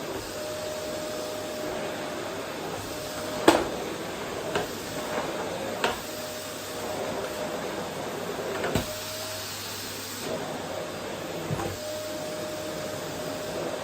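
Vacuum cleaner running steadily over a wooden floor, with a few sharp knocks; the loudest comes about three and a half seconds in.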